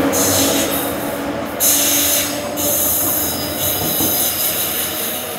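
High-pitched metallic squealing from a New Jersey Transit train at the platform, in three long stretches over a steady rail rumble, fading a little towards the end.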